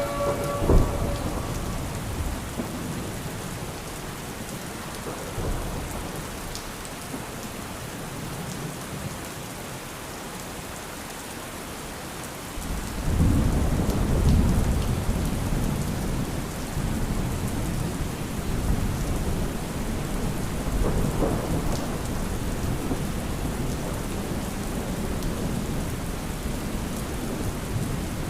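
Steady rain with rolls of thunder: a short rumble about a second in, then a longer, louder rumble starting almost halfway through, and a weaker one later.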